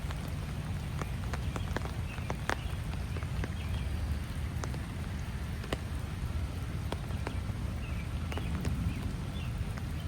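Steady rain falling, with scattered drops ticking close by, over a steady low rumble.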